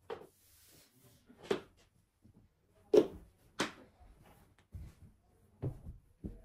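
Several separate knocks and clacks of things being handled around the home, about seven in all, the loudest about three seconds in.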